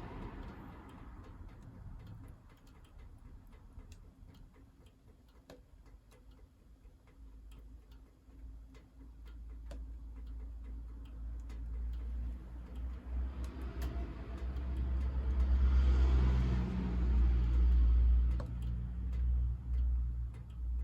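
Wood fire crackling in a wood-burning stove: scattered sharp snaps and ticks. From about eight seconds in, a low rumble swells up, loudest a little before the end.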